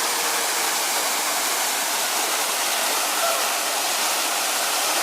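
A waterfall on the Kobalar-Su mountain river, its water falling and rushing in a steady, unbroken roar.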